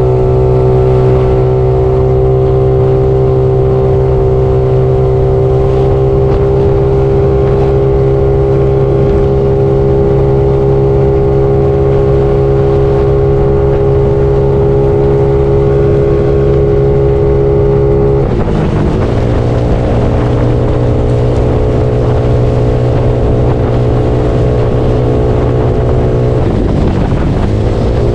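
Bored-up Yamaha Mio scooter engine running steadily at cruising speed while being ridden; its pitch dips and climbs back twice, about two-thirds of the way through and again near the end, as the engine speed drops and picks up.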